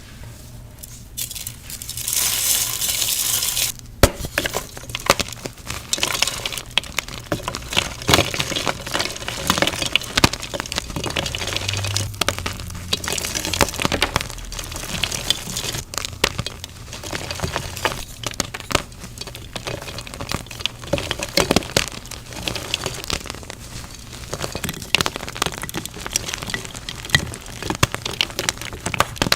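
Blocks of gym chalk being crushed: a steady hiss for the first few seconds, then dense, continuous crunching and crackling as the chalk breaks and crumbles.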